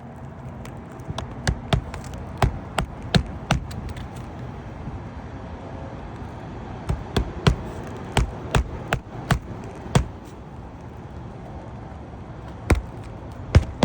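Series of sharp knocks or taps in irregular runs, roughly two to four a second with short pauses, over a steady low hum.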